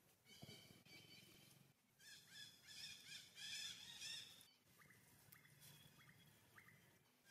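Faint bird calls: a run of quick, repeated chirping calls in the middle, followed by a few short, separate chirps.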